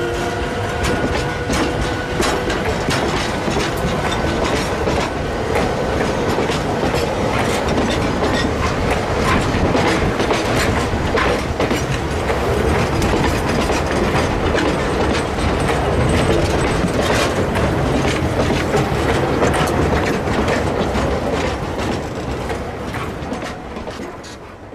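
Side-dump iron ore wagons on 762 mm narrow-gauge track rolling past close by, their wheels clattering steadily over the rail joints in a dense run of clicks. The sound eases near the end as the train goes by.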